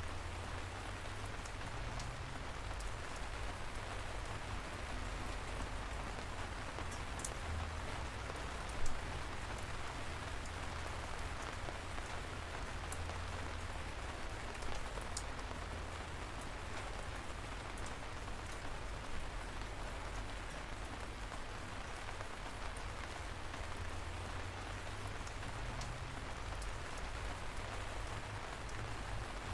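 Light rain falling steadily, with a continuous patter and scattered individual drop taps, one a little louder about nine seconds in.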